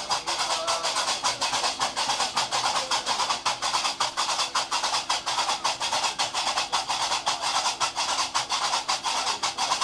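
Gnawa music: qraqeb (iron castanets) clacking in a fast, steady rhythm, with a held lower drone beneath.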